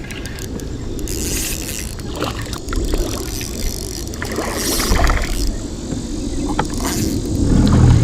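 Kayak on the water: a steady wash of noise with scattered light knocks and clicks, and a low rumble that grows louder near the end.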